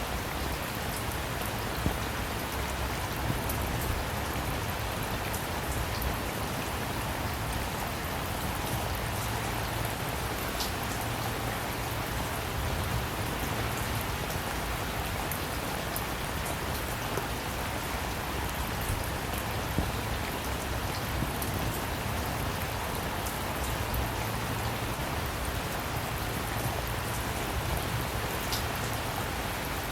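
Steady rainfall: an even hiss of rain with scattered drop ticks and a few slightly louder drips.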